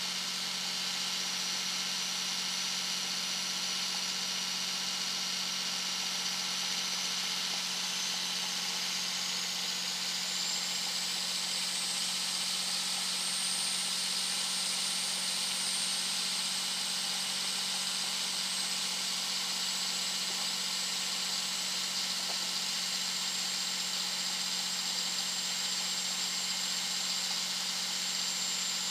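A 2001 Dodge Ram 2500's 5.9-litre Cummins inline-six turbo diesel running at highway speed, with a loud, high turbo whistle over the steady engine drone. The whistle rises in pitch about ten seconds in, holds, then eases down a little.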